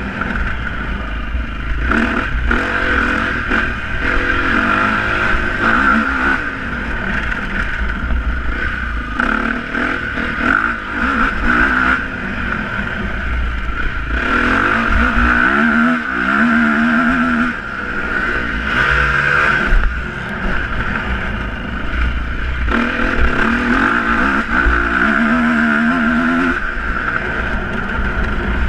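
Motocross dirt-bike engines revving hard, their pitch rising and falling again and again as the bikes accelerate and let off, over a continuous low rumble.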